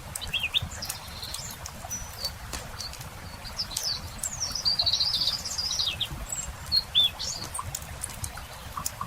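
Songbirds chirping, with a fast trill about halfway through and a short loud call soon after, over the scattered pops and crackle of a wood campfire and a steady low rumble.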